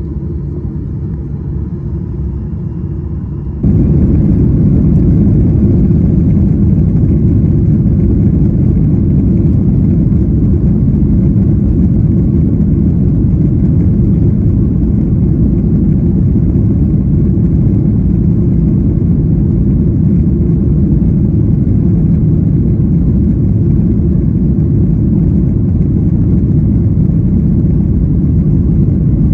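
Steady cabin rumble of a Boeing 737-800 airliner: its CFM56 jet engines and the airflow heard from inside the passenger cabin. It jumps abruptly louder about four seconds in and then holds steady.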